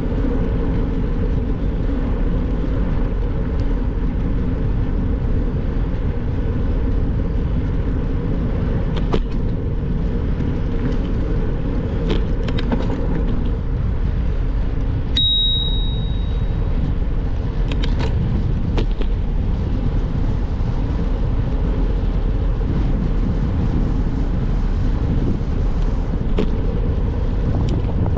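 Steady rumble of wind and road noise from a bicycle being ridden, with scattered small clicks and rattles. About halfway through there is a single short, high ring.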